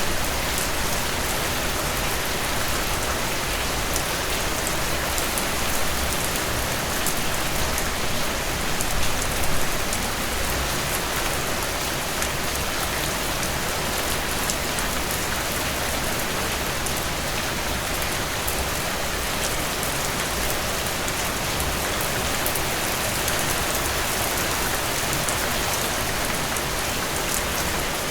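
Heavy rain falling steadily on a tin roof, a dense, even wash with many sharp individual drop strikes. It swells briefly about a third of the way in.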